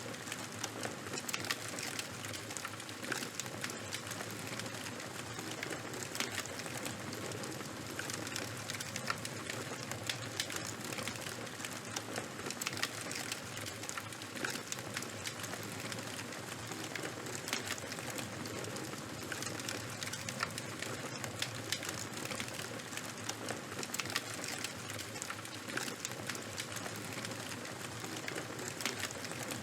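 Open fire of burning charcoal and wood crackling steadily, with many small sharp pops over a low hiss.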